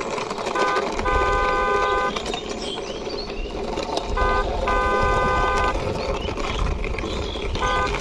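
Horn honking in a short-then-long pattern, repeated three times about every three seconds, with a low rumble under each long honk, as a toy car is pushed along by hand.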